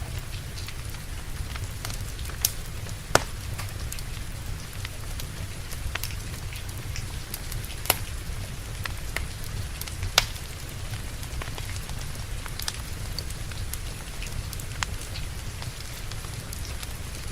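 Wood fire crackling in a fireplace, with sharp pops scattered through it (the loudest about 3, 8 and 10 seconds in), over steady rain with a low rumble.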